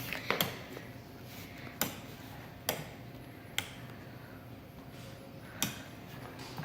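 Savoy House Velocity six-blade ceiling fan starting up and running, with a faint steady hum and a sharp tick every second or two at uneven spacing.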